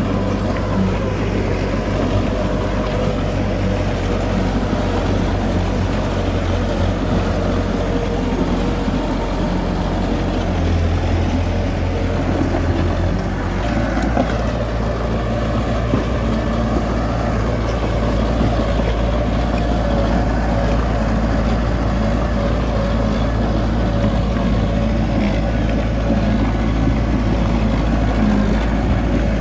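Heavy diesel earthmoving machinery running steadily, with the low engine note shifting about ten and again about thirteen seconds in.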